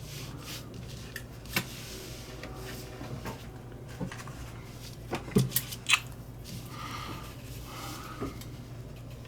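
Scattered light clicks and taps of small lighter parts and a scrap of cord being handled on a workbench, with a small cluster of sharper taps about halfway through, over a steady low hum.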